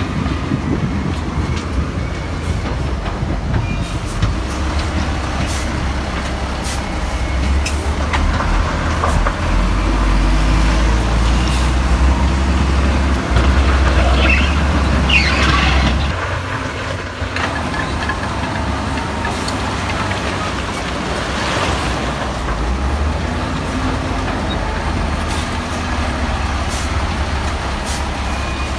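Heavy diesel construction machinery running with a deep engine rumble, which grows louder through the middle and drops off about two-thirds of the way in. Scattered metal clanks and a brief high squeal come just before the drop.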